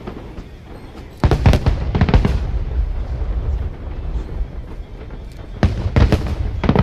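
Aerial fireworks shells bursting in two quick volleys of sharp booms, one about a second in and another near the end.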